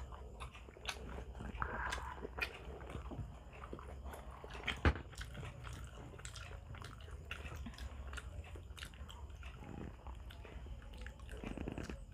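People chewing and biting grilled barbecue meat pulled off bamboo skewers, with many short mouth clicks; one sharper click about five seconds in.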